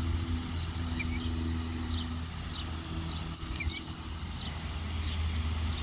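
Killdeer giving two loud, sharp, high alarm calls about two and a half seconds apart: the call of a nesting bird defending its egg. Fainter short chirps come in between, over a steady low hum.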